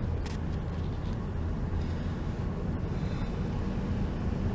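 Vehicle driving: the steady low rumble of engine and road noise.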